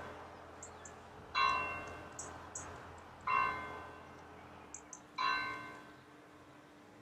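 Church bell tolling slowly: three strikes about two seconds apart, each ringing out and fading. Short high bird chirps come in between the strikes.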